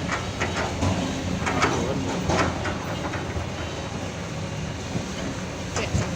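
Heavy diesel engine of an excavator running steadily, with a string of irregular sharp metallic clanks and knocks over it.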